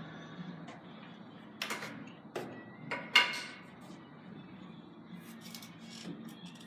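A cue striking a carom billiard ball, then the balls clicking against each other and the rails: four sharp clicks in quick succession near the middle, the last the loudest.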